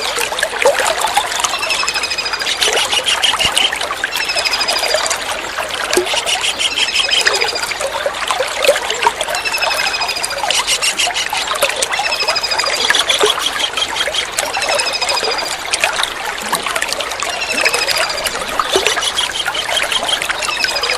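Kingfisher calls: short, high, thin whistles that fall slightly in pitch, with quick trilled notes, repeated about every two seconds. They sit over a steady sound of trickling, running water.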